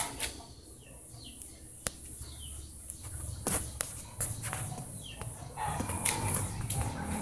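Scattered short bird chirps, several falling in pitch, among sharp clicks and knocks from handling the moving camera, over a low rumble.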